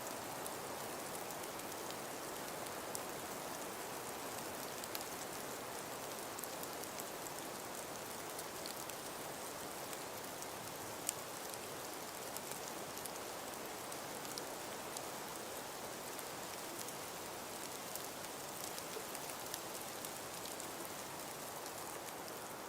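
Steady hiss of wind and falling snow, with many faint ticks of flakes and grains striking surfaces and one sharper tick about eleven seconds in.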